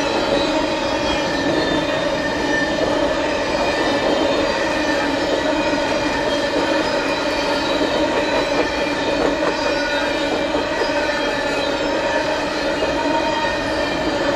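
Empty open-top coal cars of a freight train rolling past on steel wheels, with a steady wheel squeal of several pitches over the rumble of the cars.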